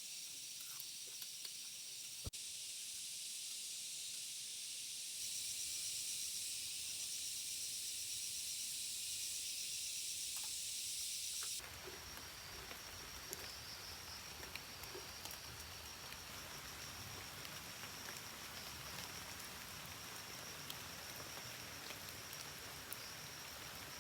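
Steady high hiss of rain and night insects, with a thin, fast-pulsing insect trill. About halfway through it changes abruptly to a fuller, even rain noise, with the insect trill still faintly heard.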